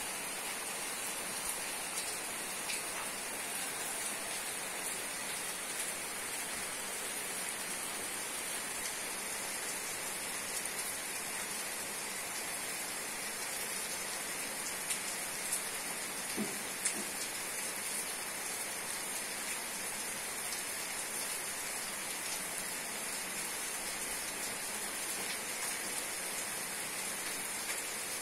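Steady rain falling, an even hiss with a few sharper drips a little past halfway.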